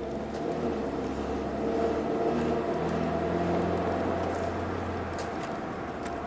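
A 2014 Ford Transit Connect's 1.6-litre EcoBoost four-cylinder heard from inside the cab while driving, with road rumble. The engine note wavers and swells slightly about two seconds in, during the surging the van is being driven to reproduce.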